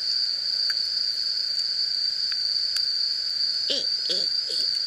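Insects trilling in one steady, unbroken high tone, with a few faint ticks. A few short faint calls come through lower down near the end.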